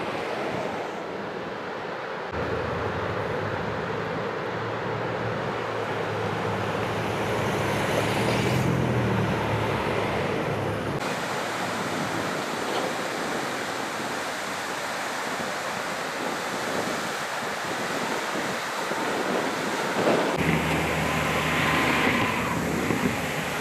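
Floodwater rushing through a breached river levee, a steady rushing noise with wind on the microphone. A vehicle engine hums underneath for stretches, dropping out about halfway through and coming back near the end.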